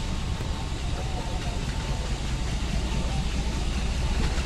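Steady low rumble of a diesel-hauled passenger train rolling slowly through a station.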